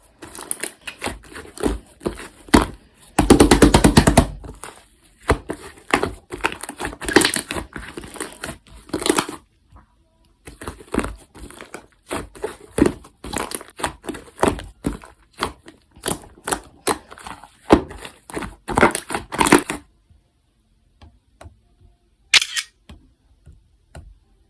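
Slime being squeezed, stretched and poked by hand, making a stream of sticky pops and clicks. There is a fast run of pops about three seconds in, and the sound thins to a few scattered pops near the end.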